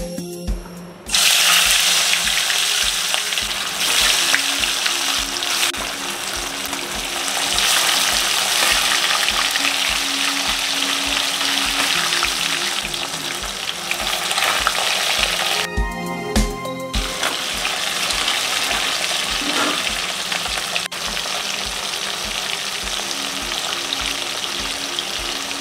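Food frying in hot oil in a metal wok, a dense steady sizzle that starts about a second in, drops out briefly about two thirds of the way through, then carries on. Background music with a steady beat plays underneath.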